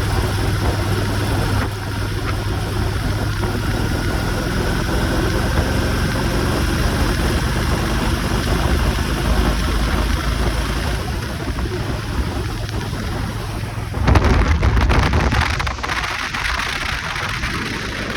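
Motorcycle engine running at a steady speed under heavy wind rush on the microphone. The wind noise surges louder about fourteen seconds in.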